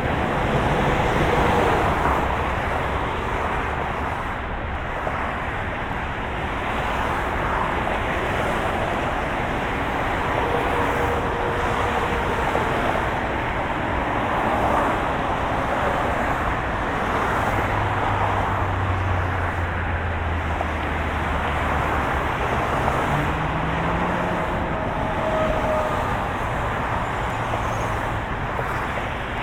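Steady noise of a moving car, engine and road together as one even hum with no break. A deeper hum swells for a few seconds past the middle, then settles back.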